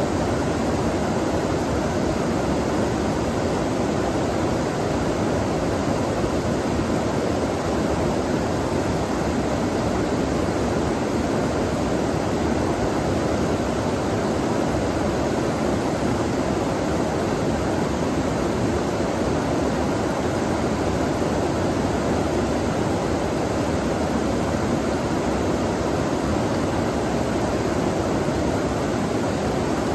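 Flowing stream water, a steady noise that holds an even level throughout.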